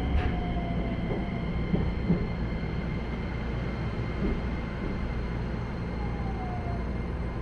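Keisei 3100-series electric train heard from inside the car, slowing down: the Toyo hybrid SiC-VVVF inverter's whine falls in pitch over the first second and again near the end, over a steady rumble of wheels on rail and a faint steady high tone.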